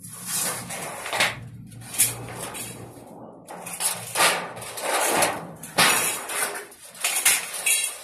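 Steel storage-shed frame rails and metal panels clattering and scraping against each other and the concrete roof as they are moved, in an irregular run of metallic knocks and scrapes.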